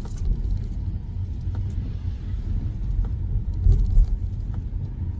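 Steady low road and tyre rumble heard inside the cabin of a Tesla Model Y electric SUV driving on winter roads, with a few faint ticks over it.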